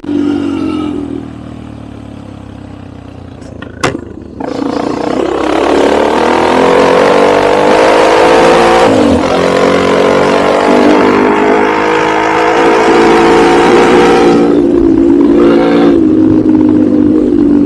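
Enduro motorcycle engine under way: it eases off and runs low and quieter for a few seconds, with one sharp knock near four seconds in, then opens up and runs loud at high revs, the pitch dropping briefly at a gear change, with a steady rush of wind and noise over it.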